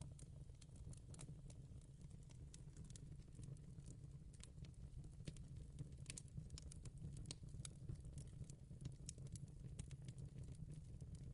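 Fire crackling softly: irregular sharp pops and snaps over a steady low rumble.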